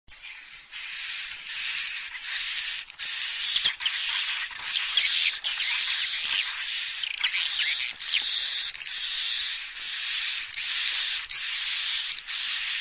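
Swiftlet lure recording: buzzy, twittering swiftlet chirps repeating in a steady loop about three calls every two seconds, each carrying a thin high whistle, with a denser flurry of sharp clicking chirps in the middle. It is the 'call sound' played at a swiftlet house to draw swiftlets in to roost and nest.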